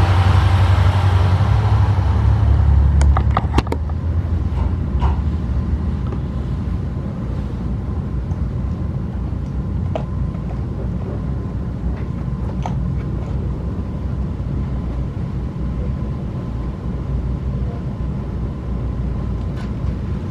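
Inside a passenger coach on the move: a steady low rumble of the wheels and running gear on the rails. The rumble is heavier for the first three seconds or so and eases after a few sharp clicks about three to four seconds in.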